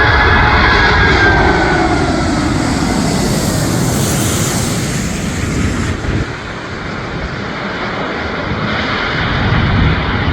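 Engines of a landing Airbus A380, four Rolls-Royce Trent 900 turbofans, passing close by: a high whine drops in pitch over the first two seconds, then gives way to a steady loud jet rush that dips and swells again near the end.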